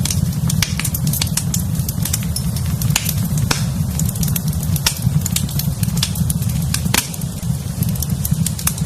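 Fireplace fire crackling, with frequent sharp irregular pops and snaps over a steady low rumble.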